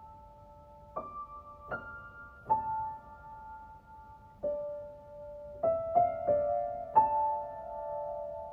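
Slow, soft piano music: single held notes and small chords struck roughly once a second, each left to ring.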